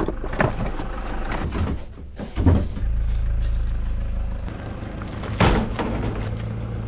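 Motor vehicle engine running steadily at a low idle, with several sharp knocks or bangs over it: one near the start, one about two and a half seconds in, and one a little after five seconds.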